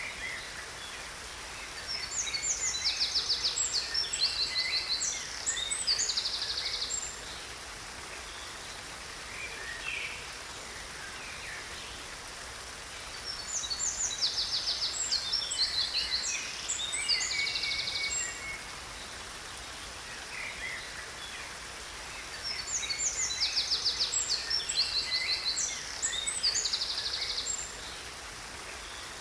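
A songbird singing three bouts of rapid high trills and chirps, each about five seconds long and about ten seconds apart, over the steady rush of a waterfall.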